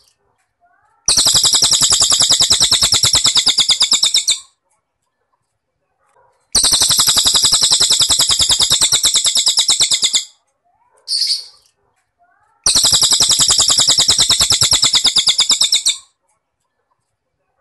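Cricket chirping in three long, fast-pulsed trills of about three seconds each, with silent gaps between them. A short, high bird call sounds once between the second and third trill.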